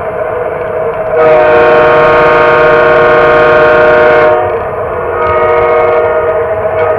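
Lionel O gauge model train's electronic sound system blowing its horn: one long blast about a second in, lasting about three seconds, then a shorter, softer one, over the train's steady running hum.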